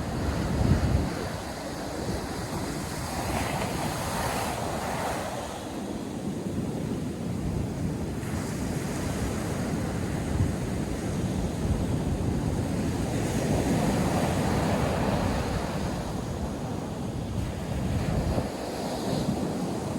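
North Sea surf breaking and washing on the beach, in swells that rise and fall every few seconds, with wind buffeting the microphone in low rumbles.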